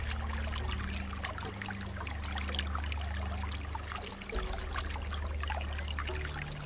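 Water trickling and splashing steadily, with many small droplet sounds, over a low sustained drone whose notes change every couple of seconds.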